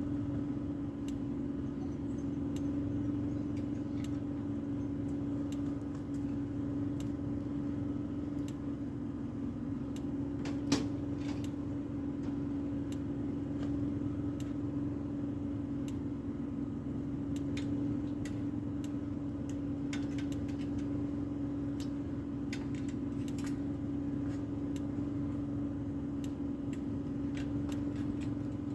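A motor running steadily, a constant even hum, with scattered light clicks and one sharper knock about eleven seconds in.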